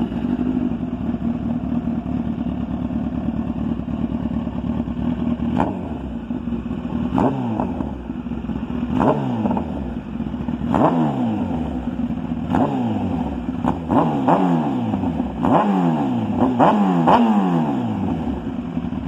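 Third-generation Kawasaki ZX-10R inline-four engine with a full M4 titanium exhaust, baffle removed, idling warm. From about six seconds in it is blipped with about ten quick revs, each dropping back to idle.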